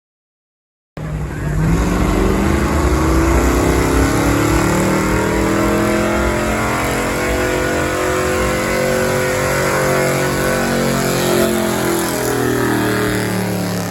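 Gasoline pickup truck engine at full throttle, pulling a weight sled. It cuts in abruptly about a second in, its pitch climbs over the next few seconds, then it holds high and eases slightly near the end.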